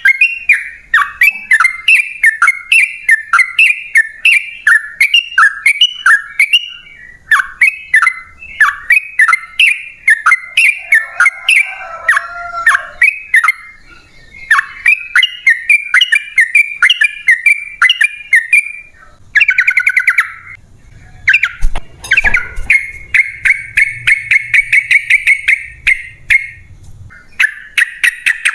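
Yellow-vented bulbul (trucukan) singing: long strings of short, rapid chirps, changing in the latter part into a faster, almost continuous trill.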